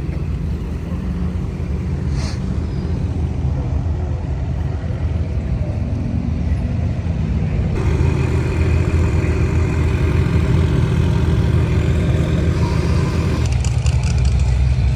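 Car engines in slow street traffic, a steady low rumble that slowly grows louder, with one louder engine passing close by for about six seconds from just past the middle.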